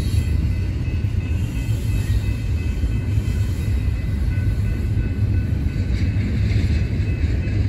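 Double-stack intermodal container well cars rolling past at speed: a steady, heavy rumble of steel wheels on rail, with faint steady high-pitched tones over it.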